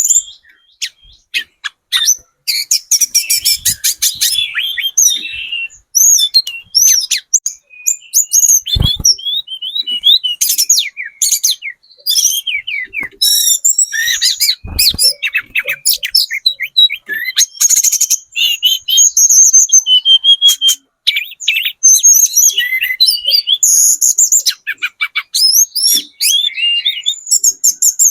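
Speckled juvenile tledekan gunung (hill blue flycatcher) singing almost without pause: a fast, high-pitched run of chirps, twittering phrases and trills broken by short gaps. This is a lure recording of the kind played to make other birds answer. Two brief low thumps come about nine and fifteen seconds in.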